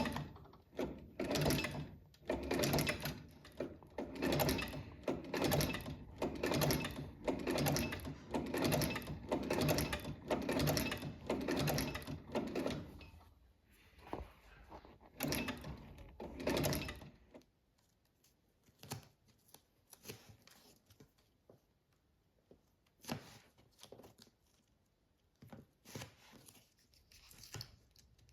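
A workshop machine or tool working in short, evenly repeated strokes, about one and a half a second, which stops about 17 seconds in. After that come scattered faint clicks and knocks of hand work.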